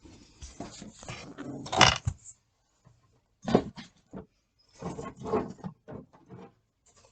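Tie-down straps with metal buckles being handled and stowed: rustling with clinks and knocks in a few irregular bursts, the loudest near the end of the first.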